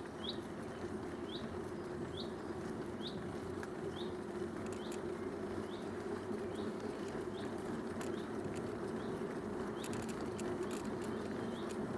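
Bicycle riding along a canal towpath: a steady rush of tyre and wind noise. Over it a short, high, rising chirp repeats very evenly, a little more than once a second.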